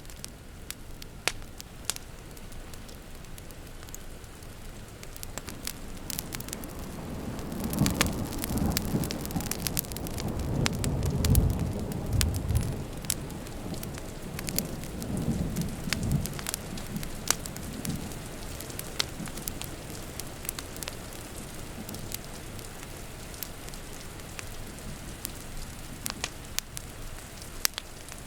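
Wood fire crackling and popping over steady rain. A roll of thunder swells about a quarter of the way in, is loudest a little before the middle, and rumbles away by about two-thirds through.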